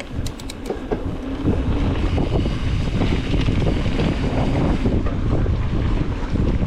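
Wind buffeting the microphone of a camera carried on a moving mountain bike, with trail noise: a steady low rushing that builds in over the first second or so.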